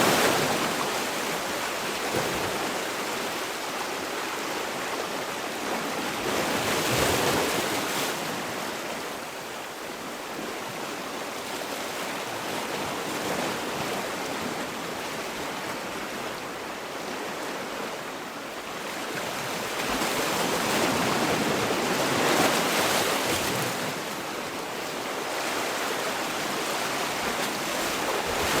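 Sea waves washing onto a shore, a continuous surf rush that swells as each wave breaks, about every several seconds.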